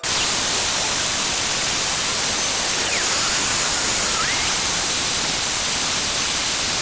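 Loud, steady static-like hiss that covers all pitches evenly, with no distinct events in it.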